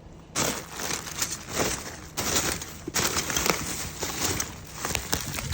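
Irregular rustling and crinkling of items being rummaged through and handled, in uneven bursts.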